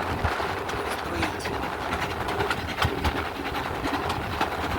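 A steam-hauled train running on a climbing gradient, with steady rumble and rattle from the carriages and wheels on the rails and many short irregular clicks.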